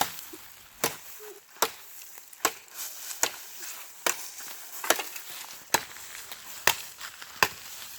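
Wood being chopped with a blade: about nine sharp, evenly paced strikes, a little more than one a second.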